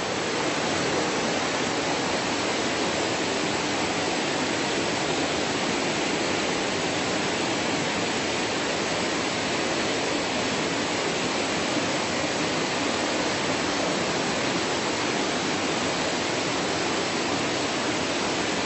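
Steady rush of water from a stream pouring toward a tall waterfall, an even unbroken roar.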